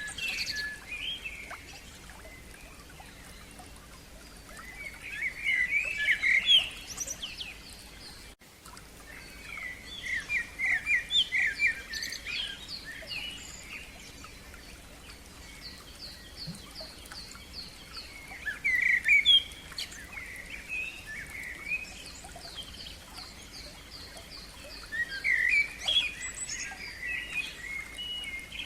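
Songbirds singing: one bird delivers warbled phrases of two to three seconds, about every six to seven seconds, while another keeps up fast series of high, evenly repeated notes between them.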